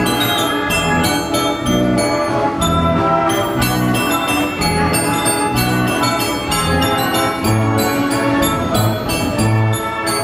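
1918 Wurlitzer style 157 band organ playing a tune: pipe notes over a regular beat of bass notes, with drum strokes and bells.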